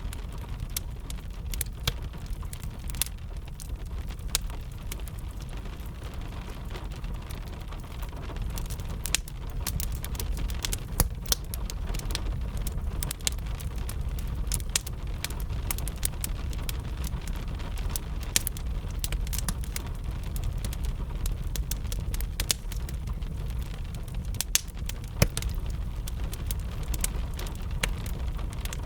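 Crackling fire and steady rain together: a constant low rumble and hiss with many sharp pops and crackles scattered throughout.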